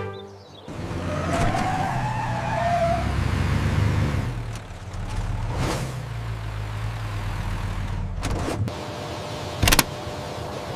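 Motor vehicle engine running steadily, with a rising whine about two seconds in and a brief loud burst near the end.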